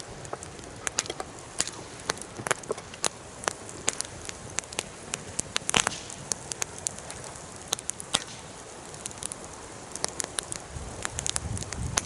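Wood fire crackling, with irregular sharp pops and snaps over a steady low hiss; one louder pop about halfway through.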